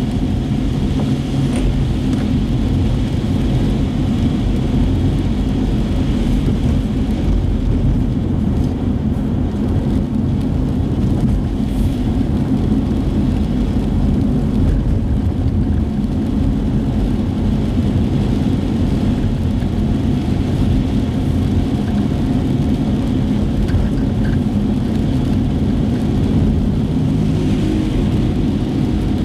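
Steady engine and tyre rumble of a car driving on wet city streets, heard from inside the cabin.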